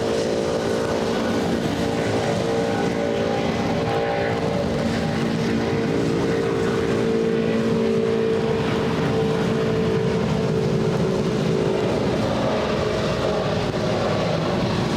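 Airbus A330's Rolls-Royce Trent 700 turbofans at takeoff power as the jet climbs away: a loud, steady jet roar with a buzzing tone in it. The tone drops in pitch and weakens after about twelve seconds.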